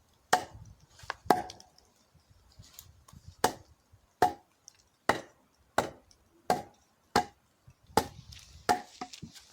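An axe striking a dried oak log about ten times: sharp chops, each with a short ring, two early and then a steady run roughly every 0.7 seconds. The seasoned oak is very hard and does not split under the blows.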